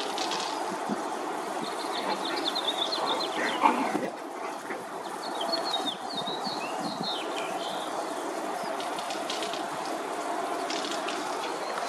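Small birds chirping in short, quick trills twice, over a steady background rumble.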